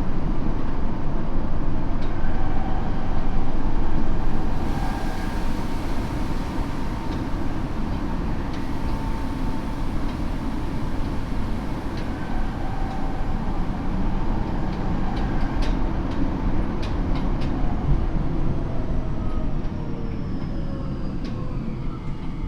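Tokyo Metro 7000 series train heard from inside the car: a steady rumble of wheels on rail, with a few sharp clicks over the rail joints. Near the end the Hitachi IGBT inverter and 160 kW traction motors whine in several tones that fall together in pitch as the train slows.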